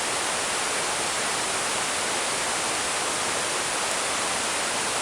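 Forest creek rushing in heavy flow, swollen after days of heavy rain: a steady, even hiss of water.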